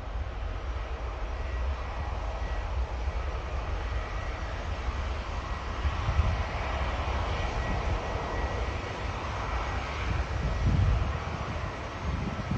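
Jet engines of an Airbus A350 (Rolls-Royce Trent XWB turbofans) running, a steady rumble with a faint high tone over it and a few low swells.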